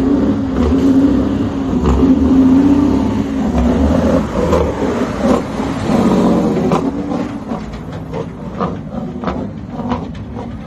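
Heavy truck engine running loudly, its pitch swelling and easing a few times, then dropping back after about eight seconds with scattered clicks.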